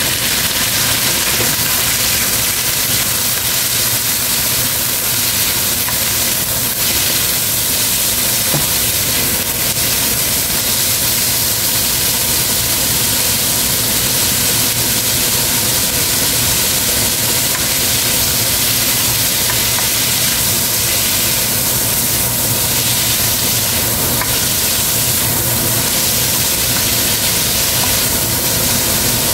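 Chicken gizzards sizzling steadily in hot oil in a nonstick wok, with a spatula stirring them near the end.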